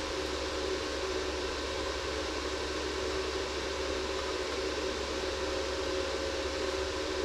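A fan running steadily: an even whirring hiss with a faint low hum.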